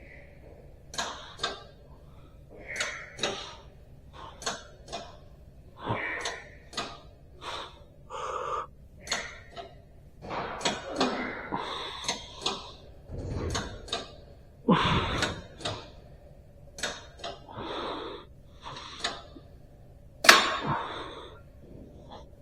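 Hands working on a person's back and shoulders: an irregular run of short rubs, taps and soft knocks, roughly one a second, with a louder knock about a second before the end.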